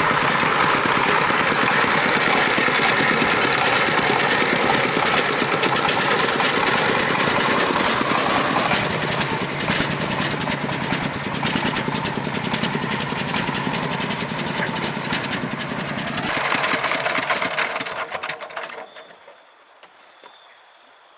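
Farm truck engine running steadily with a rapid chugging, then dying away about nineteen seconds in.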